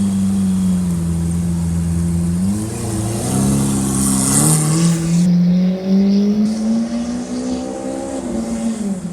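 Lamborghini Aventador SV Roadster's naturally aspirated V12 engine accelerating. Its note steps up a few times in the first half, climbs slowly through the second, then falls away near the end.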